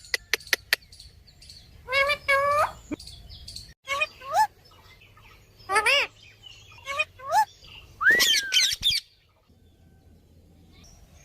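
Pet parrot calling: a handful of quick clicks at the start, then a series of short, loud calls that slide up and down in pitch. The longest, wavering call comes near the end.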